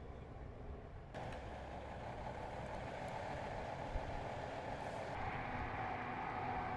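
Steady vehicle engine and road noise, such as a truck on the highway, starting abruptly about a second in and slowly growing louder.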